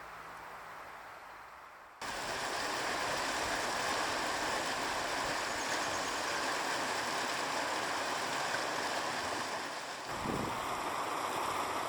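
Steady rushing of running water, like a stream. It starts abruptly about two seconds in after a soft hiss, with a brief low bump near the end.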